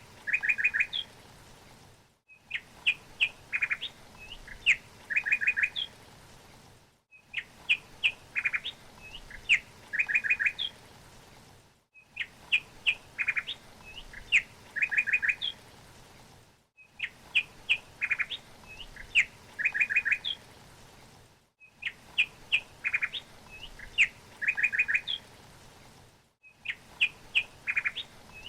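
A songbird singing: a phrase of several quick chirps followed by a short run of rapid falling notes, repeated identically about every five seconds with a brief gap of silence between repeats, a looped recording.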